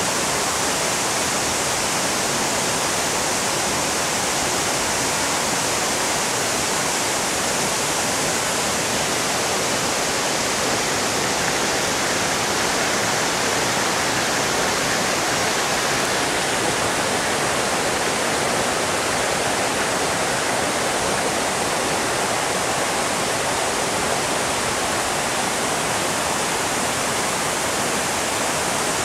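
Waterfall pouring: a steady, loud rushing of falling water that stays even throughout.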